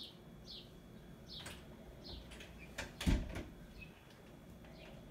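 A bird chirps over and over, a short falling call about every two-thirds of a second, while books are knocked and set down on a tile floor: a few sharp knocks near the middle, the loudest a thump about three seconds in.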